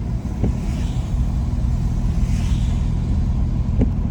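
Steady low road and engine rumble of a car driving on a wet road, heard from inside the car, with two brief swelling hisses about a second and a half apart.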